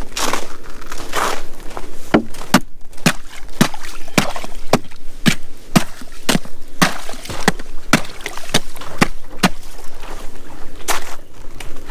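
A run of sharp knocks, about two a second, after a few crunching scrapes.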